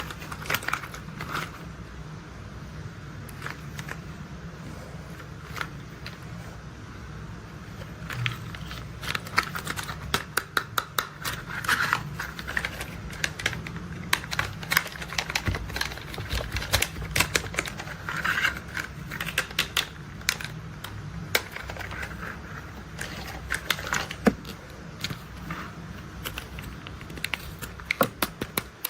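Plastic toy construction vehicles being handled, with quick runs of sharp clicks and clacks over a steady low hum.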